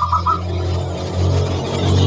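Zebra dove giving a quick run of about four cooing notes at the very start, over background music that then carries on steadily.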